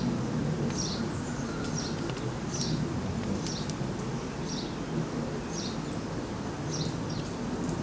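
A small bird repeating a short high chirp about once a second, over a steady low rumble.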